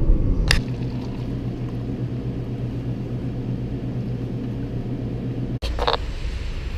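Steady low drone of a car's engine and road noise heard from inside the cabin, with a short click about half a second in and another near the end.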